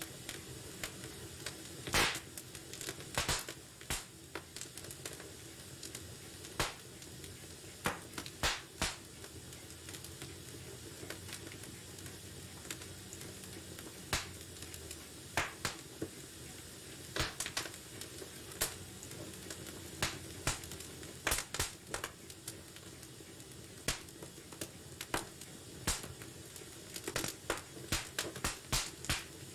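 Wood fire burning in a fireplace with a soft steady hiss and irregular sharp crackles and pops, coming in quicker clusters near the end.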